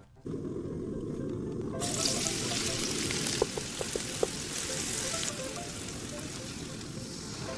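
Food frying and sizzling in a hot pan, a steady hiss that grows louder and brighter about two seconds in and eases off after about five seconds, with a few small clicks in the middle.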